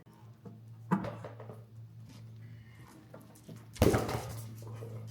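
Two sharp knocks, a smaller one about a second in and a louder one near the end, over a steady low hum.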